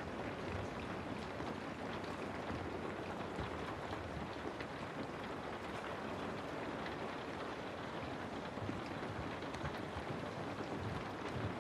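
Steady rainfall: an even hiss of rain with scattered drop ticks.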